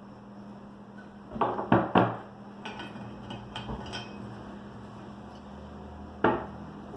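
Glassware and bar tools knocking and clinking on a counter: three sharp knocks about a second and a half in, lighter clicks over the next two seconds, and one more knock near the end.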